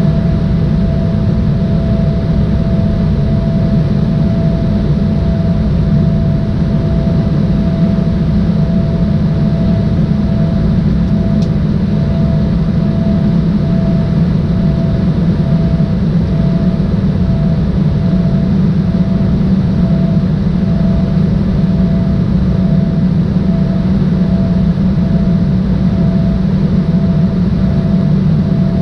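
Steady cabin noise of an Embraer ERJ-175 jetliner, heard from inside the cabin: the deep, even rush of its GE CF34 turbofans and airflow, with a faint steady tone running through it. A single small click comes about eleven seconds in.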